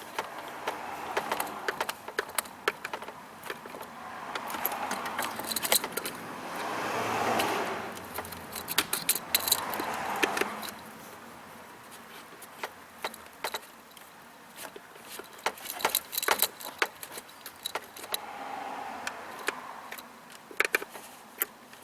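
Repeated metallic clicks and clinks of hand tools and small parts being handled, with a few longer rasping stretches between about four and eleven seconds in: hand work fitting and fastening a replacement fuse box.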